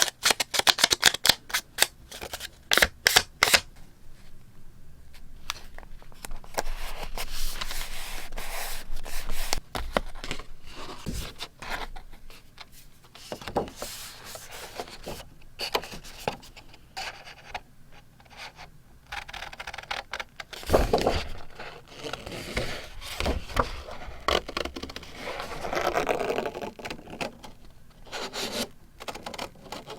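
Scissors snipping through paper in quick strokes for the first few seconds, then paper being rubbed, scraped and shuffled, with occasional light knocks.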